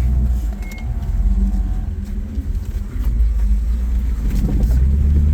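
Rock-crawling off-road vehicle's engine rumbling at low revs as it picks its way over boulders, the revs rising and falling.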